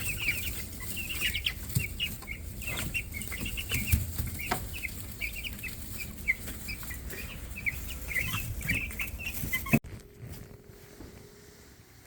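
A brood of nearly two-week-old meat-bird (broiler) chicks peeping, with many short, high chirps overlapping. The peeping cuts off suddenly about ten seconds in, leaving only a faint hum.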